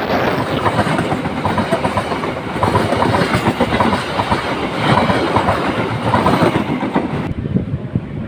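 A train passing close by, its wheels clattering over the rail joints.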